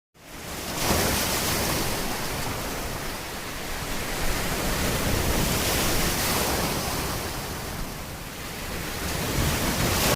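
Steady rushing noise, like wind or moving water, swelling and easing slowly. It fades in over the first second and cuts off abruptly at the end.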